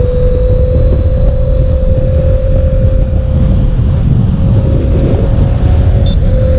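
Honda CBR1000RR's inline-four engine running steadily at speed in one gear, its note rising slowly, under heavy wind noise on the microphone.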